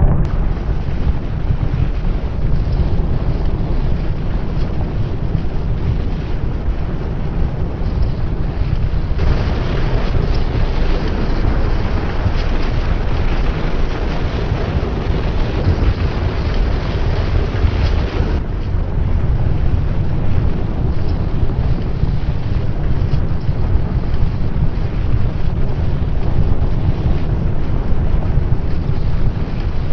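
Loud, steady low rumble of wind buffeting the microphone, with no distinct impacts, shifting in tone about 9 and 18 seconds in.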